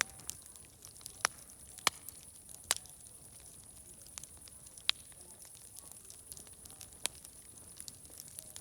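Wood fire crackling: irregular sharp pops, a handful of them loud, over a steady high hiss.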